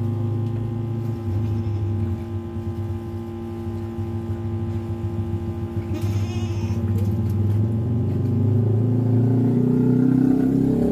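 A steady low mechanical hum, like a motor running, that grows louder toward the end. There is a brief higher rippling sound about six seconds in.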